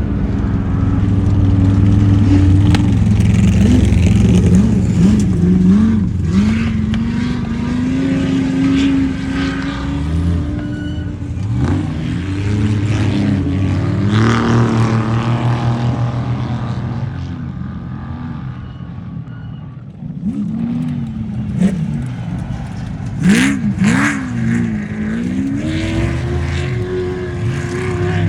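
Off-road race vehicles' engines running hard, revving up and down over and over as they drive. The sound dips and changes about twenty seconds in, with a louder burst of revving a few seconds later.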